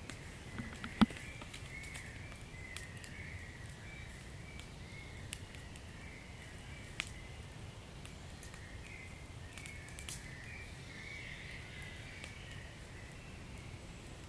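Wood fire in a fireplace crackling with scattered sharp pops, one loud pop about a second in, over a low steady rumble of the flames. A faint wavering high whistle runs along with it.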